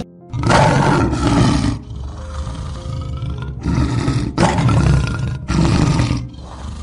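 A large wild animal roaring in a series of loud, rough calls, about four of them, each lasting around a second.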